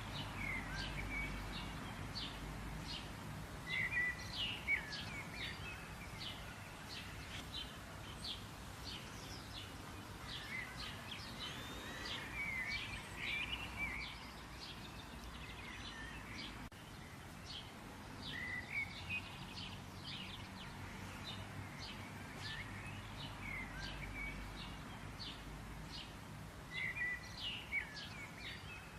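Small birds chirping and singing, with short song phrases repeating every few seconds, over a steady low background rumble.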